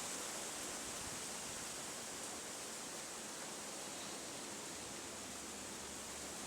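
Steady, even hiss of outdoor ambience, with no single call or event standing out.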